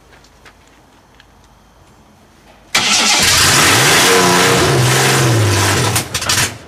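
Supercharged Ford V6 engine firing up about two and a half seconds in, running loud for about three seconds with its pitch swinging up and then down, then dying away near the end.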